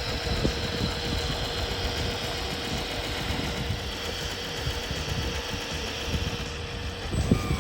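Small electric hydraulic pump and drive motors of a 1/25-scale RC Liebherr R 9800 excavator running steadily as it works, with a light crackle through it.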